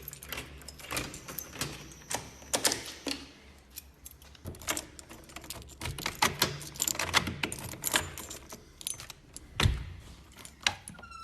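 An irregular run of sharp clicks and rattles, like small hard objects knocking together, with a heavier thump about three-quarters of the way through.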